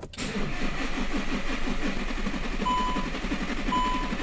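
Starter motor cranking the Volkswagen Crafter's 2.0 BiTDI twin-turbo diesel, an even rapid chugging without the engine catching, on a weak battery and with the fuel lines not yet bled after injector work. It begins with a clunk as the starter engages, and two short beeps sound about two-thirds in and near the end.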